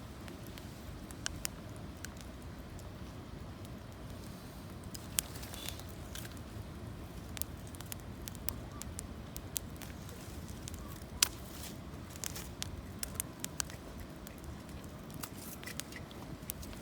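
Campfire of gathered branches crackling, with irregular sharp pops scattered throughout, the loudest about eleven seconds in, over a steady low rushing noise.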